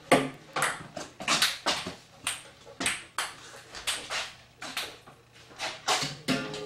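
Table tennis rally: a celluloid ball clicking back and forth off paddles and the table, about three hits a second in an uneven rhythm.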